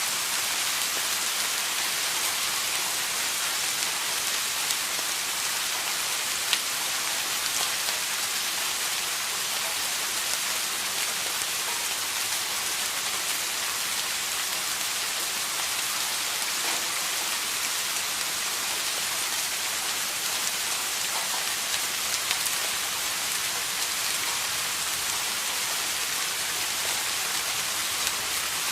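Steady rain, an even hiss with scattered drops ticking on a surface.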